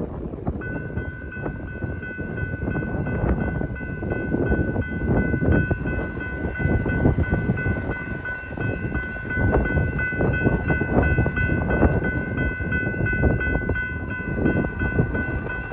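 Canadian Pacific Holiday Train rolling past with a continuous rumble and clatter, buffeted by wind on the microphone. A steady high ringing tone of several pitches starts about half a second in and carries on alongside it.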